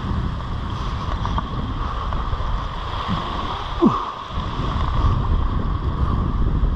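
Steady wash of surf with wind noise on the microphone. A short falling squeak comes about four seconds in.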